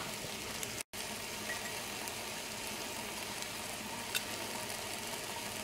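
Mixed vegetables and soya chunks sizzling faintly in oil in a pot on a low flame: a steady, soft hiss that cuts out for a moment about a second in.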